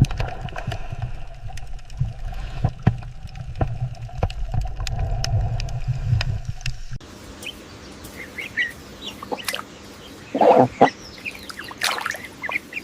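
Chickens clucking. A low rumble with scattered clicks runs under them for about the first seven seconds, then stops suddenly. After that it is quieter, with short calls and one loud burst near the end.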